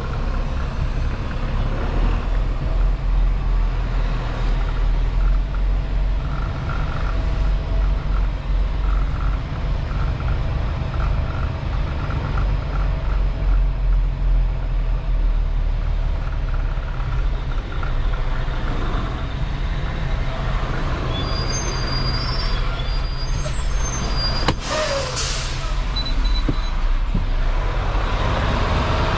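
Semi truck's diesel engine running with a steady low rumble, with a short hiss of air near the end.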